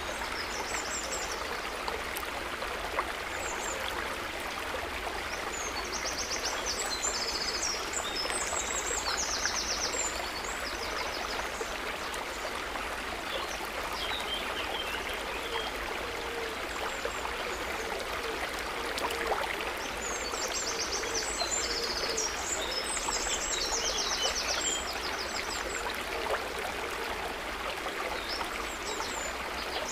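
Steady trickling and babbling of water, with two bursts of high, rapidly repeating chirps, about a quarter of the way in and again about two-thirds through.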